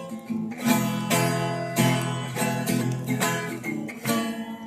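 Acoustic guitar strummed in a steady rhythm, about two strokes a second, chords ringing between strokes, with no singing over it.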